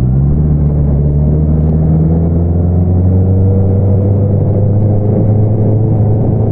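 Honda CBR650R's inline-four engine running through an Akrapovič single-outlet exhaust, holding steady revs with a slight, slow rise in pitch.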